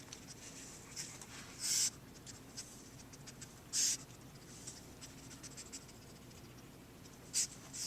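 A Chihuahua moving about and searching: faint light scratching with three short hissy bursts.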